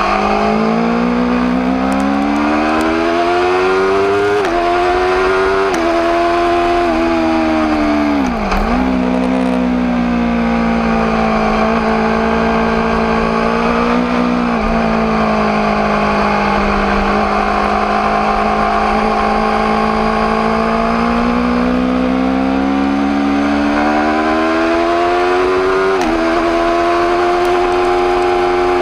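Aprilia RSV4 APRC's V4 engine under way, revs climbing and stepping down through several quick upshifts in the first seven seconds. Revs drop sharply and briefly about eight seconds in, then hold fairly steady with slow rises and falls, and there is another upshift near the end.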